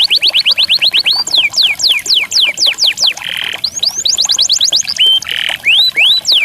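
A songbird singing: a fast run of repeated whistled notes, each sliding down in pitch, about eight a second, giving way to slower, wider down-slurred whistles, two short harsh buzzy notes, and a few rising whistles near the end.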